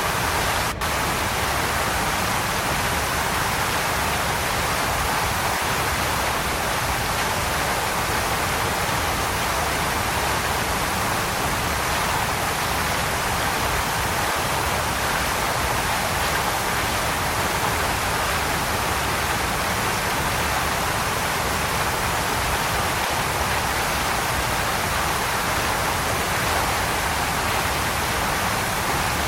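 Waterfall rushing: a steady, dense roar of falling water, even throughout, with one very brief dropout about a second in.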